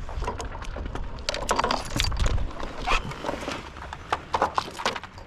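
Irregular knocks and clattering on a kayak as a freshly caught small bluefish is handled and unhooked, the fish thrashing against the boat.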